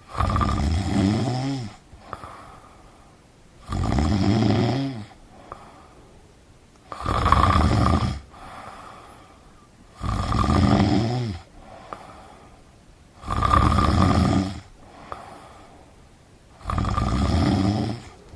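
A sleeping person snoring: six loud, even snores about one every three and a half seconds, each lasting about a second and a half, with a much fainter breath between them.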